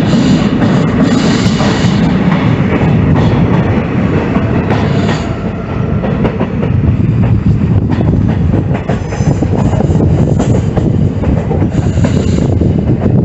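Passenger train running on the line: a loud, steady rumble of the carriages with scattered clicks of the wheels on the track.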